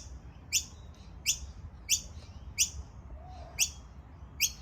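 A bird repeating a short, sharp, high call about every two-thirds of a second, each call a quick downward sweep, about seven times over a low background hum.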